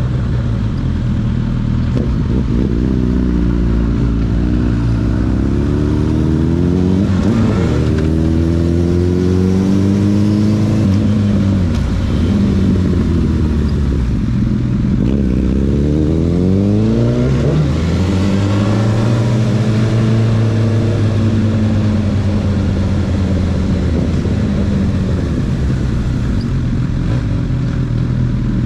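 Honda CB1000R's inline-four engine running, its pitch climbing over several seconds and then falling back, twice, before holding steady as the revs rise and drop.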